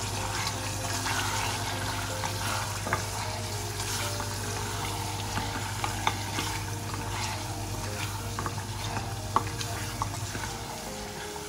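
Goat liver, onions and spices frying in oil in a pressure cooker pot, sizzling steadily as a spatula stirs them, with occasional sharp clicks and scrapes of the spatula against the pot. This is the bhuna stage, sautéing the liver with the masalas.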